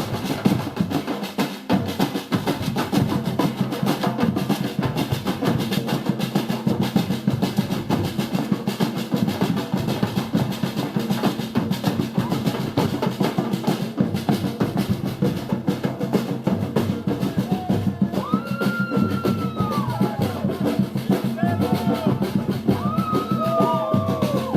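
Samba drum section of a carnival street band playing a fast, steady warm-up rhythm: snare drums rolling over deep bass drums. In the last several seconds, pitched tones gliding up and down join in above the drums.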